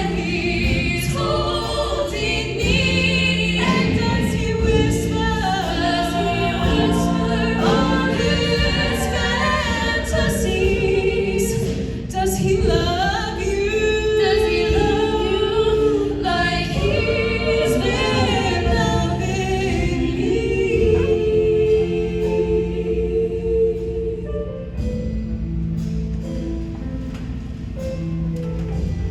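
Show choir singing in parts over an instrumental backing. Near the end the voices drop away and the accompaniment carries on.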